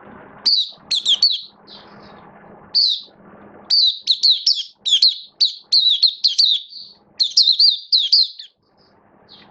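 Red-whiskered bulbul singing loudly in a rapid string of short, sweeping whistled phrases, with a brief pause around two and three seconds in, then a long run of notes that stops shortly before the end.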